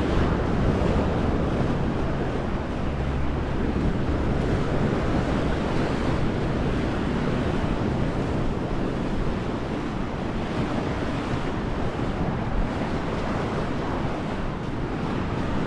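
Sea surf washing on a beach, a steady rush of waves, with wind buffeting the microphone.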